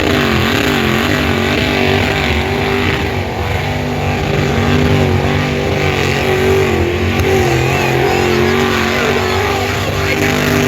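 Supercharged 6.0 L LS V8 of a 1964 Chevrolet Impala lowrider running hard in a burnout, its revs wavering up and down and holding steadier near the end.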